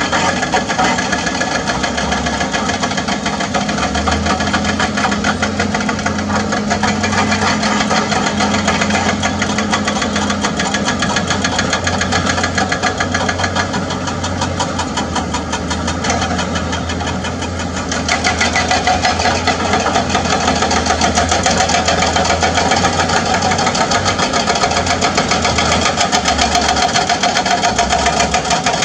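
Excavator-mounted hydraulic breaker hammering limestone in a rapid, steady stream of blows, over the excavator's diesel engine running. The hammering gets louder about 18 seconds in.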